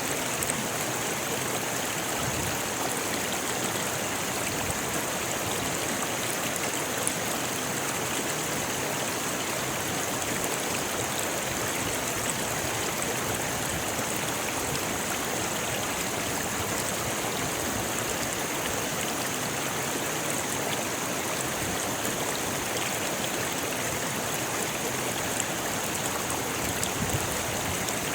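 Rocky river rushing and splashing over stones: a steady, unbroken water sound.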